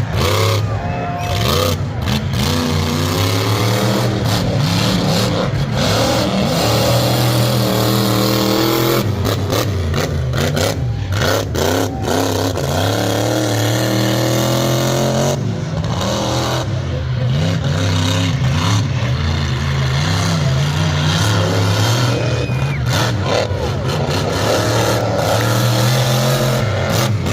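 Loud truck engines running hard and revving, their pitch rising and falling again and again.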